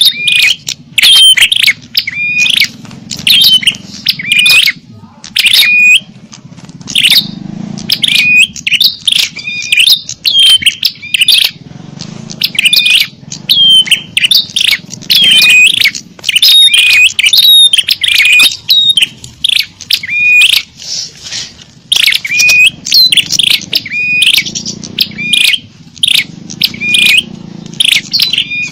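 Small songbirds chirping from a bird-lure (pikat) recording: loud, sharp chirps repeated several times a second in clusters with brief pauses, the busy, agitated chatter used to draw small birds in.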